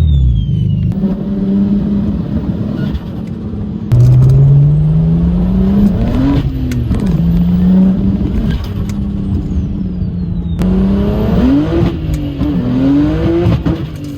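BMW N54 straight-six with a single 6262 turbo, accelerating hard: the engine pitch climbs and then drops several times as it goes up through the gears.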